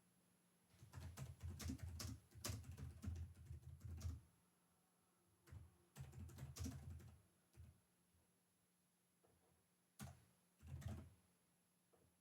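Computer keyboard typing, quiet, in short runs of keystrokes: a run of about three seconds starting about a second in, a shorter run around the middle, then a few separate keystrokes near the end.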